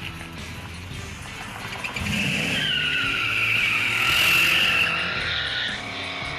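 Pontiac Firebird's tires squealing for about three seconds, starting about two and a half seconds in, as the car is driven hard, with the engine running underneath.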